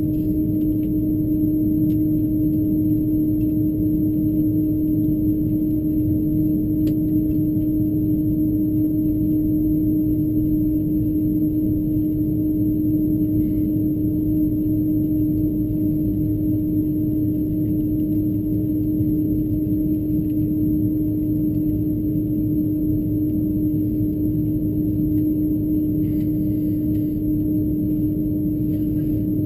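Steady cabin noise inside an Airbus A330-200 taxiing with its engines at idle: a low rumble under a constant hum.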